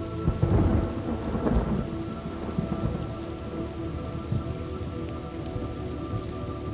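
Thunderstorm: steady heavy rain, with a thunderclap breaking about half a second in and rolling off into a low rumble over the next few seconds.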